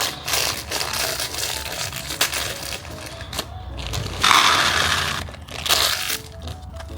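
Peanuts rattling and crunching as they are poured from a bag into a bird feeder. The loudest rush comes about four seconds in, followed by a shorter one.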